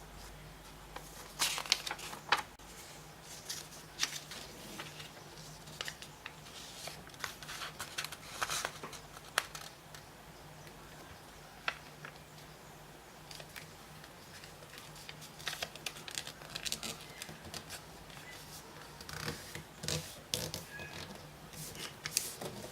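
Origami paper being handled, folded and creased by hand: irregular short rustles and crisp scrapes, with a faint steady low hum underneath.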